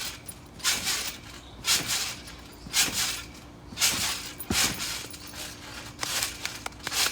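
Someone bouncing on a trampoline, about one bounce a second, each bounce a short burst of mat and spring noise.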